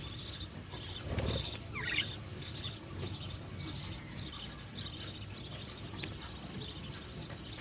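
Budgerigars chirping: high, squeaky chirps repeat two or three times a second, with one falling call about two seconds in. A dull bump sounds about a second in.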